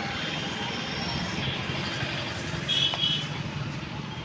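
Street traffic noise on a town road, a steady rumble and hiss of passing vehicles, with a short high-pitched beep about three seconds in.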